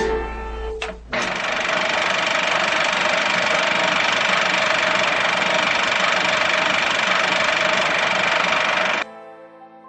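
A loud, steady mechanical noise with a few constant tones running through it, like a machine running, starting about a second in and cutting off suddenly near the end. A short burst of music plays before it.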